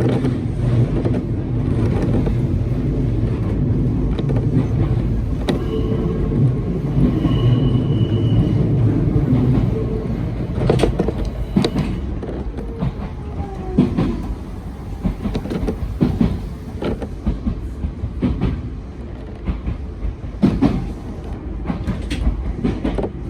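Hakone Tozan Railway train running along the track, a steady low rumble with clicks from the wheels over rail joints. A brief high squeal sounds about six to eight seconds in, and a falling whine follows about halfway through.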